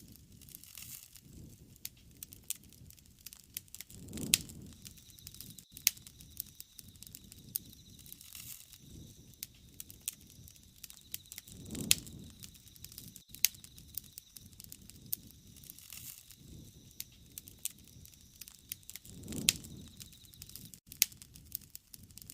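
Wood fire crackling, with frequent sharp pops and snaps. A soft low rush swells up three times, about every seven and a half seconds.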